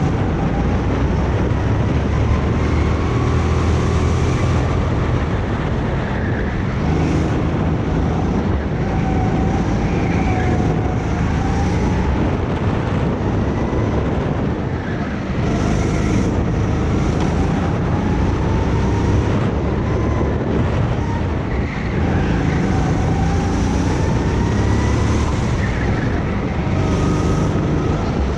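Go-kart engine running hard, its pitch climbing on the straights and dropping off several times as the kart brakes for corners.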